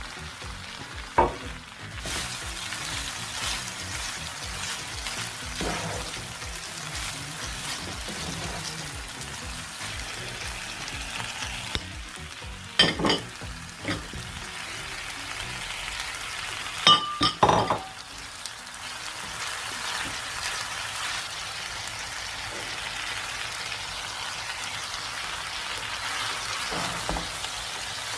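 Rice vermicelli noodles and stir-fry ingredients sizzling in a hot pan while being stirred, with a few sharp clinks of the utensil against the pan: one about a second in, one around halfway, and a quick pair a few seconds later.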